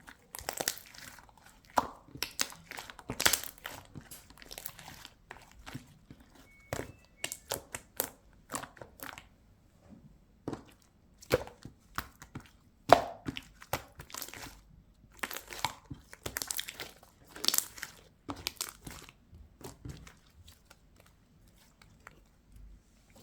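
Slime full of trapped air bubbles being squeezed and stretched by hand, giving irregular bursts of crackling pops as the bubbles burst.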